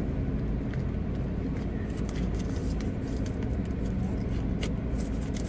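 Car engine idling, a steady low rumble heard inside the cabin, with faint scattered clicks and rustles of things being handled while searching for a payment card.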